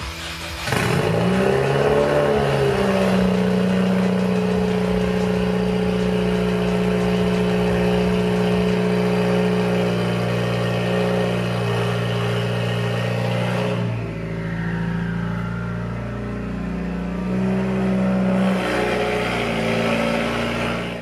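Subaru WRX STI's turbocharged flat-four engine coming up loudly about a second in, its revs rising and then holding steady. About two-thirds of the way through the sound drops and then wavers as the car pulls away.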